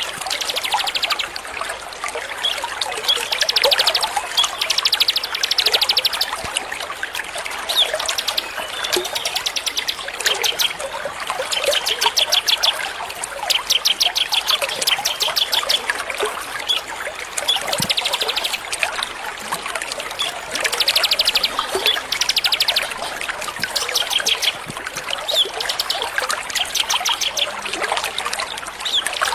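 Small songbirds chirping and singing fast trills, quick runs of repeated high notes coming every second or two, over a steady trickle of running water.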